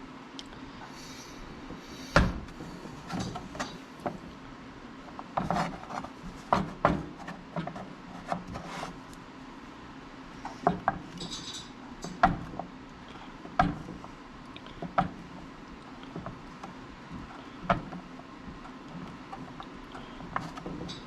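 Knife cutting sharp cheddar into small cubes, the blade knocking on a cutting board in irregular sharp taps, one every second or so.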